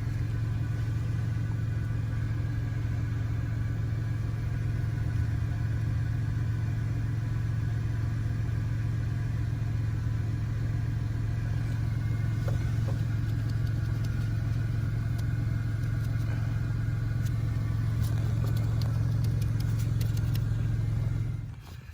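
A steady low motor hum with an even pitch, which stops abruptly near the end.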